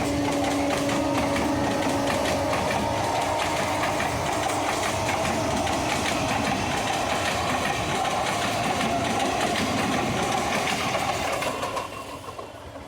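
Electric suburban local train (EMU) passing close by: a steady rumble with rapid clatter of wheels over the rail joints. A steady hum fades out a second or so in, and the noise drops away near the end as the train clears.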